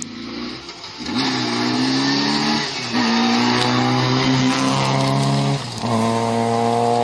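Rally car engine at high revs under full throttle. It grows loud about a second in, steps in pitch about three seconds in, and dips briefly near six seconds before pulling again, with tyre and gravel noise around it.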